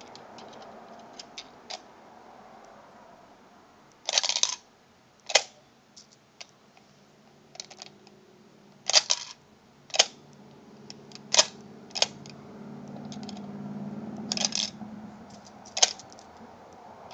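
Coins being fed into a hollow aluminum elephant mechanical bank: a string of about eight sharp metallic clicks and clinks, a few seconds apart, as the tail-operated bar-and-spring mechanism tips each coin in and it drops among the others inside.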